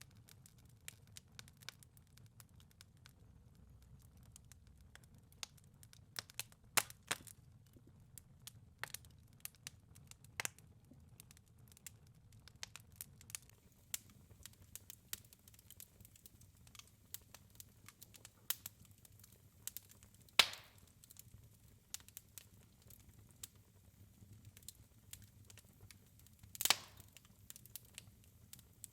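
Wood fire crackling in a fireplace: scattered small ticks and snaps, with four louder pops, over a faint steady low rumble.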